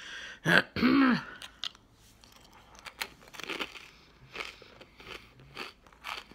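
A fortune cookie being bitten and chewed, with crisp crunches roughly twice a second. In the first second comes a short voiced sound from the eater, rising then falling in pitch, which is the loudest thing heard.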